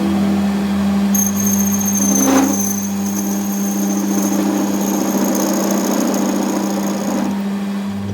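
A machine running steadily with a low hum, joined from about a second in by a thin high-pitched whine that stops near the end.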